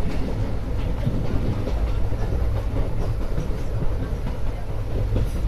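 Indian Railways express train running along the track, heard from beside a moving coach: a steady low rumble of the wheels on the rails with occasional clacks.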